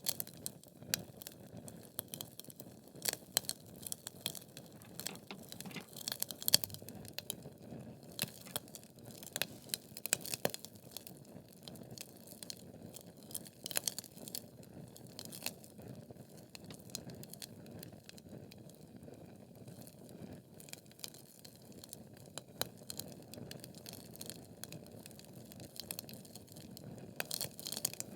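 Wood fire burning in a fireplace: logs crackling and popping with sharp irregular snaps over a low steady rush of flame, the pops thickest in the first half and again near the end.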